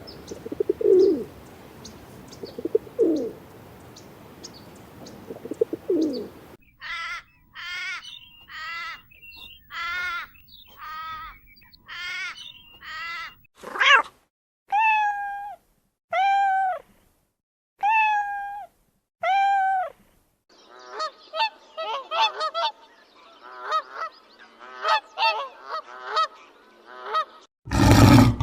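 Animal honking calls: three low calls, then a run of loud honks about one a second, then many honks overlapping as several animals call together.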